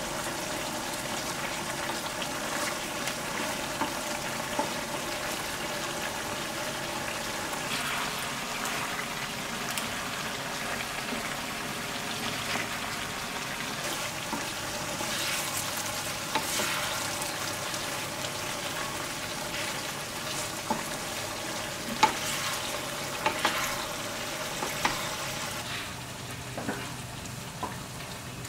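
Pork belly, webfoot octopus and vegetables sizzling steadily in a frying pan, stirred with a wooden spatula; several sharp clicks of the spatula against the pan come in the last third.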